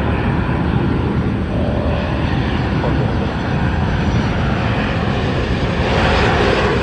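Airliner engines running loud and steady, a rumble with a hiss that brightens about six seconds in.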